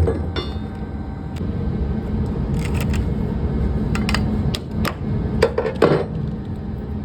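Diesel truck engine idling steadily, with a series of sharp metal clanks and knocks on top, several close together about four and six seconds in.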